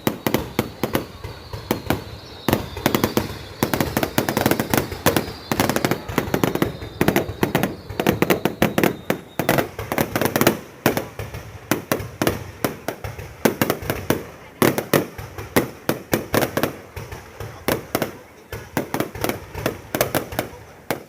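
Fireworks going off in a dense, continuous barrage of rapid bangs and crackles, many per second. A thin high whistle runs under the bangs for the first half and then stops.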